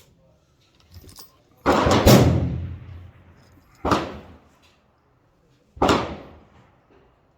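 Shots from a PSA M4-clone 5.56 mm rifle being fired slowly at a range: a sharp report with a ringing echo tail, two in quick succession about two seconds in, then single shots roughly two seconds apart.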